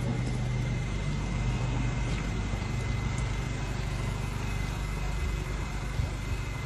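Electric S-Bahn train moving past at the platform: a steady low hum with a thin, steady high whine above it.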